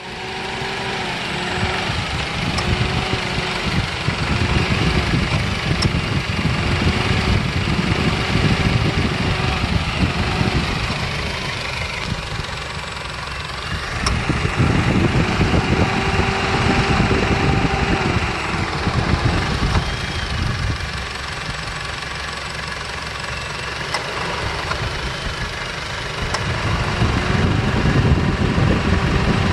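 A 2009 Honda CR-V's 2.0-litre four-cylinder engine idles while the air-conditioning compressor clutch cycles on and off by itself. The engine sound swells and eases in turns lasting several seconds. The owner cannot find the cause; when the compressor does run, it cools normally.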